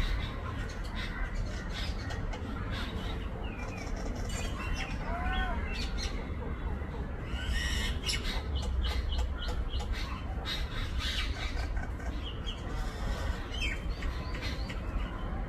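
Birds calling: scattered short chirps and arched, whistled notes, some rising and falling, with sharp clicky calls, over a steady low rumble.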